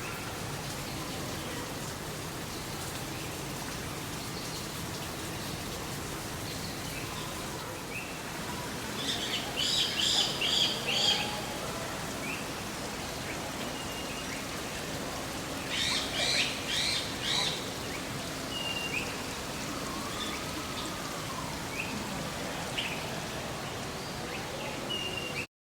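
Small birds chirping over a steady hiss of falling water. Twice there is a run of rapid, high repeated chirps, with scattered single chirps between. The sound cuts off suddenly at the end.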